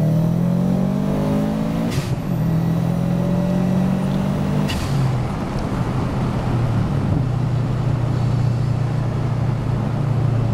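Subaru WRX's turbocharged flat-four engine accelerating hard in the car's cabin, its note climbing through the revs. It is cut twice by upshifts, about two and five seconds in, each with a short burst of noise and a drop in pitch, then it holds a steadier note.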